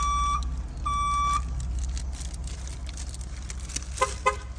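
Repeated electronic beeps, each about half a second long and about a second apart, that stop about a second and a half in, over a low steady hum; two short chirps follow near the end.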